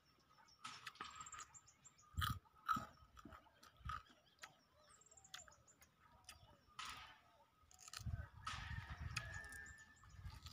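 Close chewing of watery fermented rice (basi pakhal) eaten by hand, in noisy bursts, with a few sharp knocks about two to four seconds in. Faint bird chirps run underneath.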